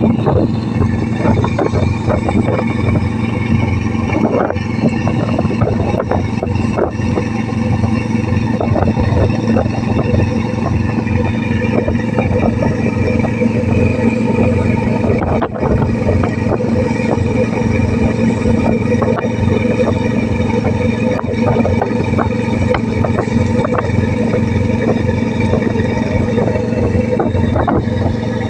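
A fishing boat's inboard engine running steadily at a constant speed, with a fine rattle over a low, even drone.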